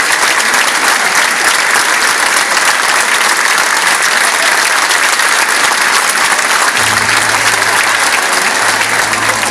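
A large concert audience applauding steadily after the song ends. About seven seconds in, a low steady hum comes in under the clapping.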